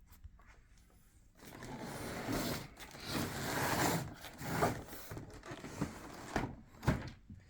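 A boxed scale airliner model being handled and turned over, with the box rubbing and scraping in uneven swells and a sharp click near the end.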